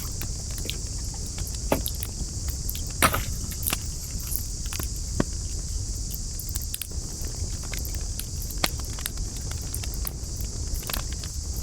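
Wood campfire crackling, with irregular sharp pops, the loudest about three seconds in, over a steady low rumble and an even high hiss.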